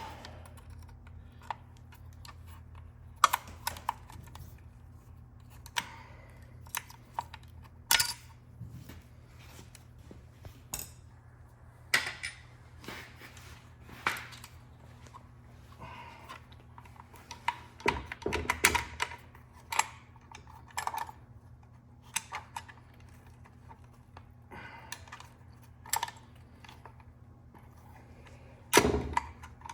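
Hand tools and small metal transmission parts clicking and clinking at irregular intervals during teardown of an automatic transmission, over a steady low hum.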